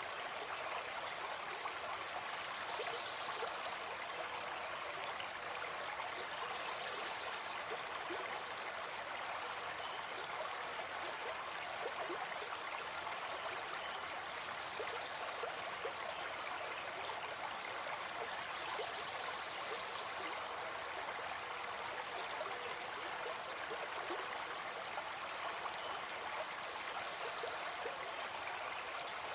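Gentle forest stream flowing, a steady, even rush of water.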